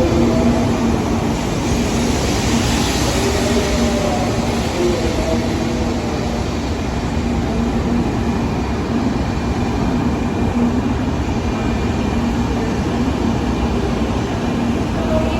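Shinkansen train at a station platform, a steady loud rumble with a low, wavering hum over it. A brief airy hiss comes about two to three seconds in.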